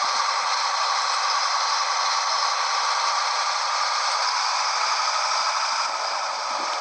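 Steady rush of road and cab noise from a Scania 113H truck under way, with rattling throughout.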